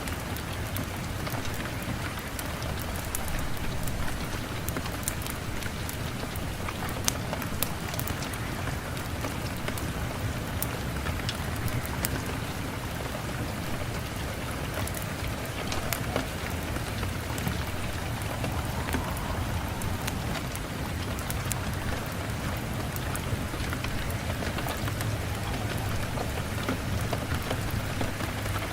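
Steady rain hissing without a break, with a low rumble beneath and scattered sharp pops throughout.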